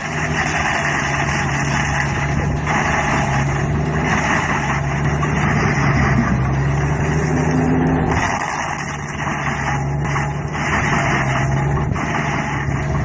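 A heavy land-clearing machine's engine running steadily under load, with a loud rushing, grinding noise over it. The engine note eases for a moment about eight seconds in, then picks back up.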